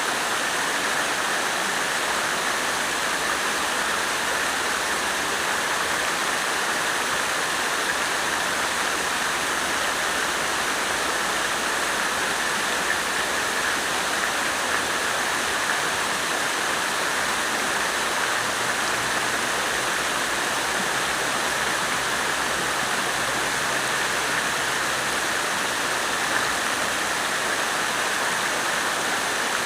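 Water fountain splashing: a steady, unbroken rush of falling water.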